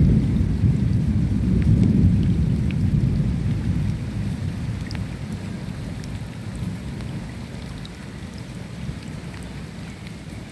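Rolling thunder rumbling low and dying away gradually, over steady rain with scattered drop ticks.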